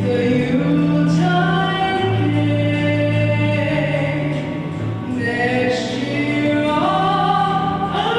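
A choir singing in parts, the voices holding long notes together and moving to new chords every second or two.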